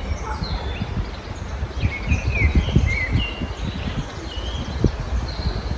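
Small birds chirping and singing in short, quick notes over a steady low rumble.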